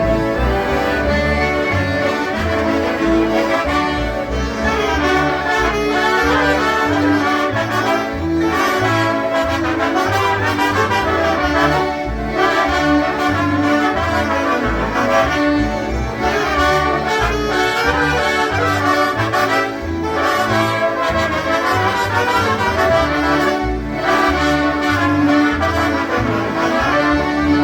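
Live polka tune played by a concertina jam band: many concertinas playing together over a steady beat.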